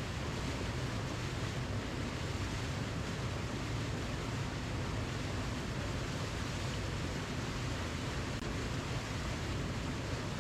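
Waterfall: a steady, unbroken rush of falling water, heavy in the lows.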